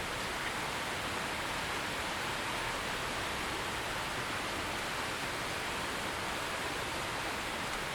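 Steady heavy rain falling, an even hiss with no thunder or distinct drips.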